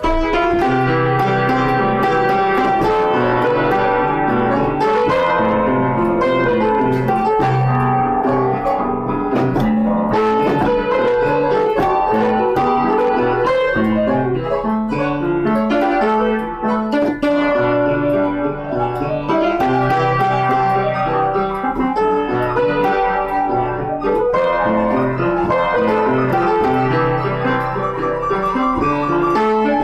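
Instrumental piano music: a melody with chords over repeated bass notes, played at a steady level.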